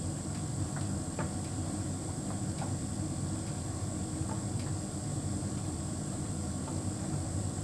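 Hotpoint heat pump tumble dryer running: a steady low hum and rumble with a faint high whine and scattered faint ticks.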